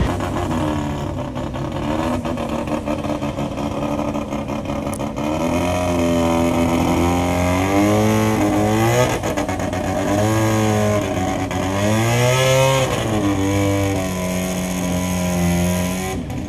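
Rally car engine held at a steady note, then revved up and down several times, its pitch climbing and dropping back twice before settling.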